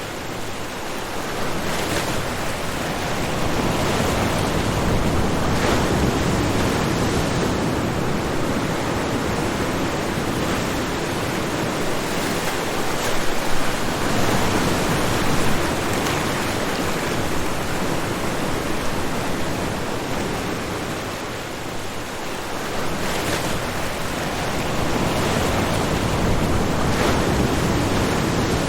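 Ocean waves breaking on a shore: a continuous rushing surf that swells and ebbs, easing briefly about three-quarters of the way through before building again.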